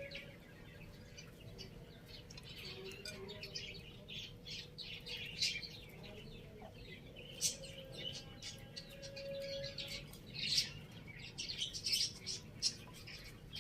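Birds chirping: many short chirps in quick, irregular runs, busiest in the second half, with a few faint longer calls lower down.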